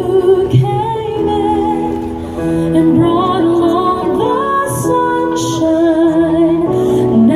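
Two sopranos singing a duet in classical style with wide vibrato over an instrumental accompaniment.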